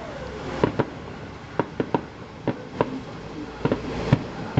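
Fireworks going off: an irregular run of sharp bangs and cracks, about a dozen in quick succession.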